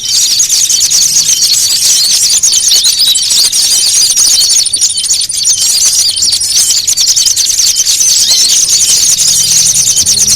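Small-bird lure call: a loud, noisy chorus of many small songbirds chattering in agitated, fight-style calls, dense rapid high chirps without a break over a thin steady high note.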